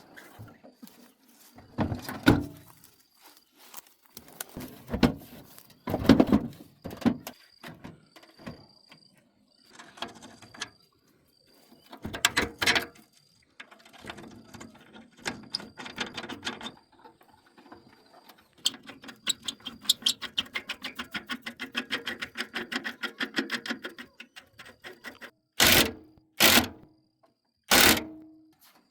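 Workshop repair noises: irregular metal knocks and clatters of tools and parts being handled, then a long run of rapid, even clicking, and three short loud bursts near the end.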